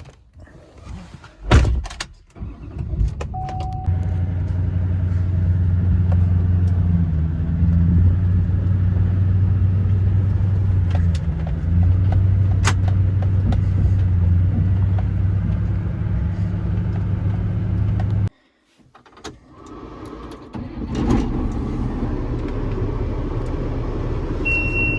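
A vehicle door shuts with a knock, then a pickup truck's engine starts and runs at a steady low drone as it is driven a short way, stopping abruptly about eighteen seconds in. A few seconds later another engine is running.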